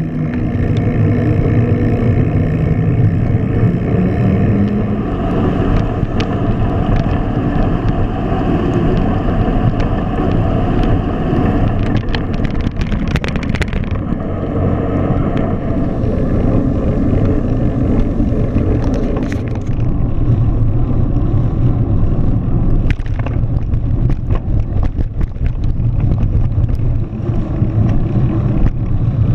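Steady low rumble of a bicycle ride in the rain, with wind on the microphone and road noise throughout. Scattered clicks and rattles come about halfway through and again through the last third.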